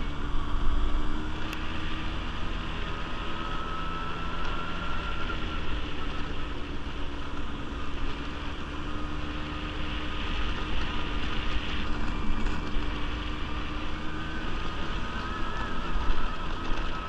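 Quad bike (ATV) engine running steadily under way, its pitch drifting gently up and down with the throttle, over a low rumble.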